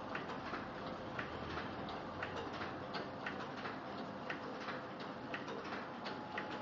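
Komori Sprint 26 sheet-fed offset printing press running: a steady mechanical clatter with a sharp click about once a second and fainter ticks in between.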